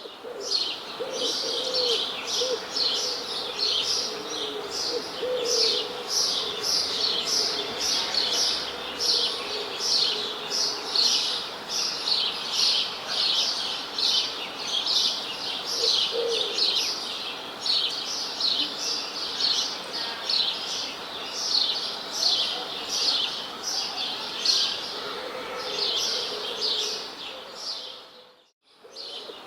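Songbirds chirping continuously, with quick downward-sweeping chirps about twice a second and a few lower calls mixed in. The sound cuts out briefly near the end.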